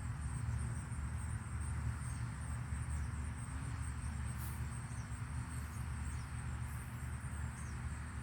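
Insects chirring steadily in a high, fine-pulsed tone over a constant low rumble.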